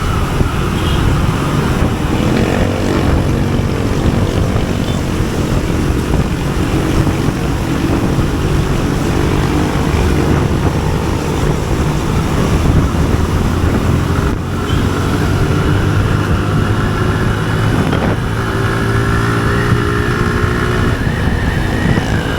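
Motorcycle on the move, its engine running under steady road and wind noise, climbing in pitch twice as it speeds up.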